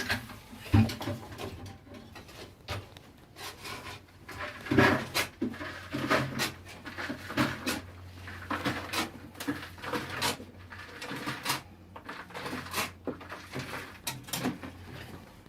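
Irregular knocks, scrapes and rubbing as a bucket on a rope is lowered down a dug shaft, over a steady low hum.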